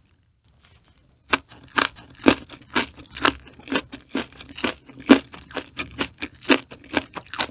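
Close-miked chewing of green onion kimchi: crisp, wet crunches in a steady rhythm of about two a second, starting just over a second in.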